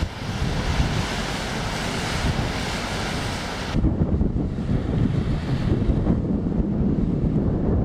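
Wind buffeting the microphone with a rushing hiss; about four seconds in the hiss drops away suddenly, leaving a low wind rumble.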